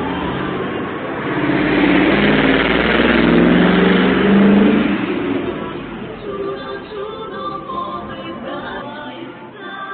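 Fire truck engine revving up as it drives, loudest about four seconds in, then fading away. Music takes over from about six seconds.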